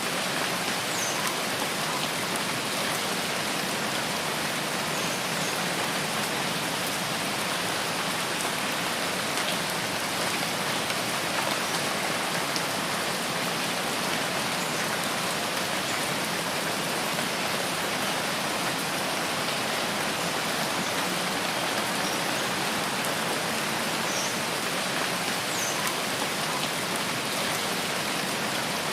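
Steady rain falling in a rain forest, an even hiss with no let-up, with a few faint high chirps now and then.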